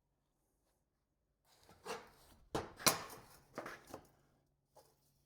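A run of light knocks and clatter from a fabricated sheet-metal shelf being handled and fitted into a tool cart. It starts about a second and a half in, is loudest near three seconds and dies away about a second later.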